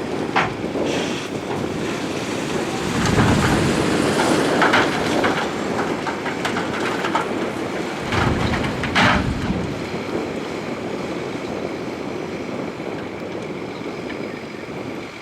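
Crawler bulldozer at work: diesel engine running with clanking tracks and rock and gravel grinding, rising in two heavier surges with sharp metallic clanks.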